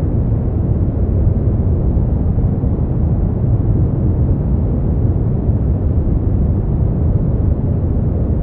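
Steady brown noise: a deep, even rumbling hiss, strongest in the low end and fading out toward the highs.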